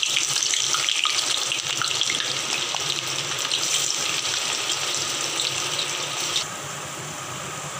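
Sliced onions sizzling and crackling in hot oil as they are dropped into a pan to fry. The sizzle cuts off abruptly about six seconds in.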